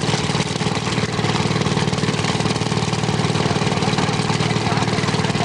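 A fishing boat's engine running steadily with a fast, even pulse.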